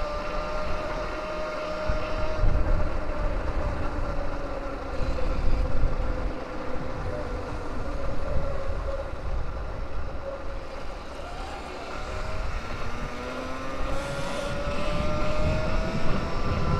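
Electric dirt bike's motor whining while riding. The pitch sinks slowly through the middle and climbs again near the end as the speed changes, over a low wind rumble on the microphone.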